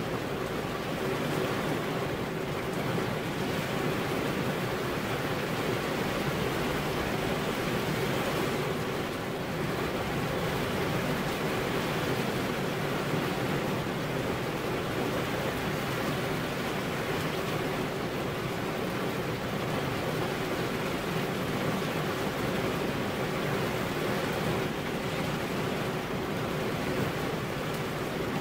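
Steady heavy rain: an even, unbroken hiss of falling water, with a faint steady tone underneath.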